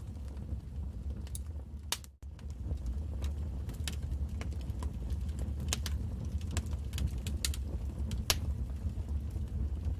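Wood fire crackling, with irregular sharp pops over a low, steady rumble of the flames. The sound cuts out for a split second about two seconds in.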